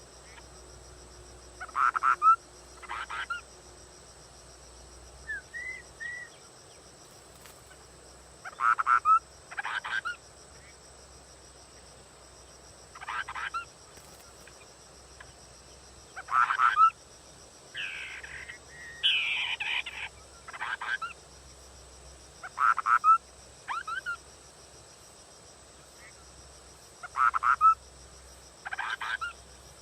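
Scimitar babbler (họa mi đất) calling: short whistled calls in quick pairs, repeated about every four to six seconds.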